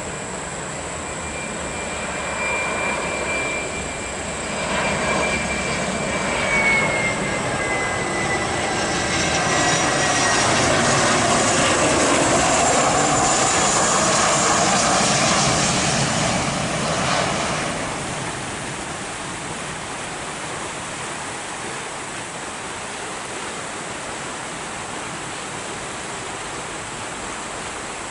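Airliner's engines passing close by: a high whine that drops in pitch as the aircraft approaches, building to a loud rushing peak around the middle, then dying away to a distant rumble.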